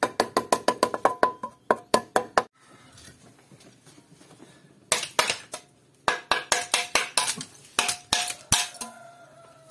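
Mason's steel trowel tapping bricks down into fresh mortar to level them: two runs of quick metallic clinks, about six a second, each with a short ringing tone.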